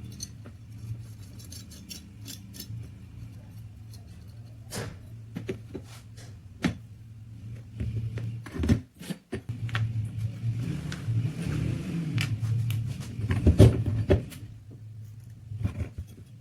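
Metal parts clicking, clinking and scraping against each other in handling or working, with the loudest knock about three-quarters of the way through, over a steady low hum.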